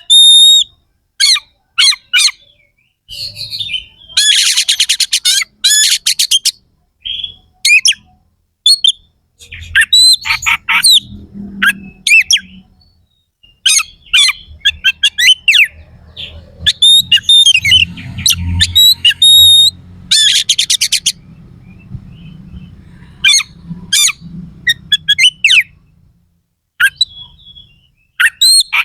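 Oriental magpie-robin singing loud, varied phrases with harsh, fast rapid-fire note trains, twice in dense bursts lasting a second or two, the rough 'tembakan kasar' song style.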